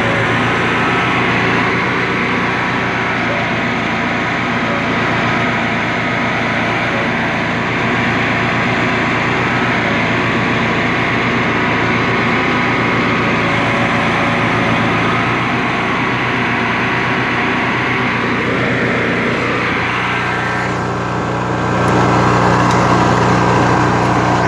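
Simplicity garden tractor's 16 hp, 656 cc Briggs & Stratton opposed-twin engine running steadily while the tractor is driven. The tone shifts about 21 seconds in, becoming deeper and slightly louder.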